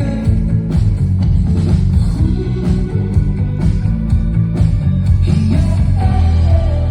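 Live rock band playing a passage of the song without clear vocals: drums hitting at a regular beat over a heavy, sustained bass and held chords.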